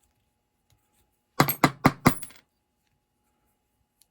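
A small metal part clattering onto a hard surface: four or five quick sharp clinks within about a second, the last one ringing briefly.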